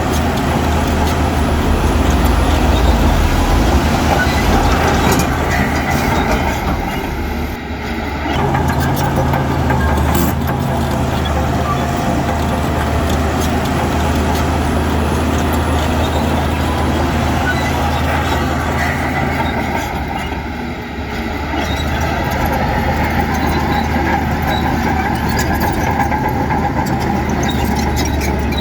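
Heavy diesel engine of construction machinery running steadily under load, with two brief dips in loudness, about a quarter of the way in and again about three-quarters in.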